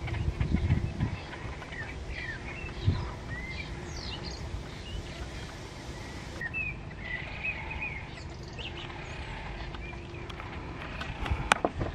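Small birds chirping in short high calls scattered throughout, over a steady outdoor background. Low rumbling thumps come at the start and near the end, the loudest sounds here, with a sharp click just before the end.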